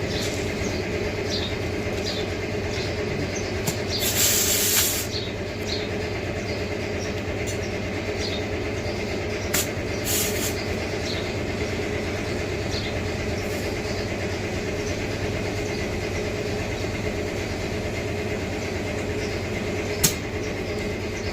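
A steady machine drone runs throughout, with a loud burst of hissing air about four seconds in, a shorter hiss near ten seconds, and a sharp metal click near the end.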